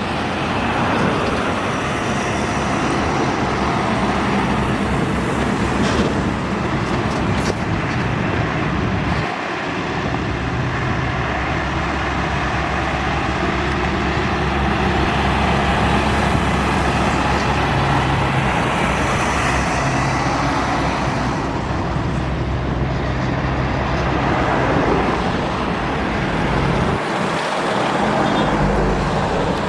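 Heavy highway traffic: trucks and other vehicles passing one after another, their engines and tyres making a continuous loud noise.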